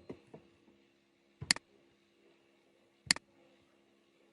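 Two sharp computer mouse clicks about a second and a half apart, with a few small ticks just before, over a faint steady hum.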